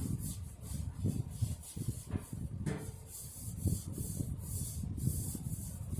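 A disinfectant wipe being rubbed over a Lasko Weather Shield box fan's case in repeated wiping strokes, with uneven light knocks as the case is handled.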